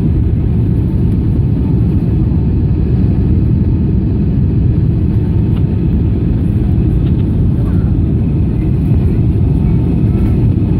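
Airliner's jet engines heard from inside the passenger cabin while climbing after take-off: a steady, loud low rumble.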